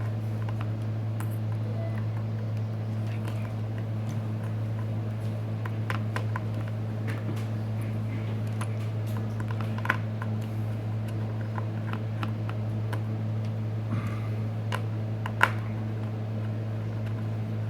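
Steady low electrical hum with sparse light clicks and taps scattered through it, the sharpest about ten seconds in and again near the end.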